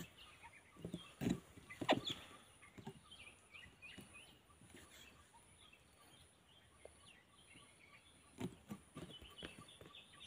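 Birds chirping and calling faintly, with a few soft knocks, the loudest about a second and two seconds in and another near the end.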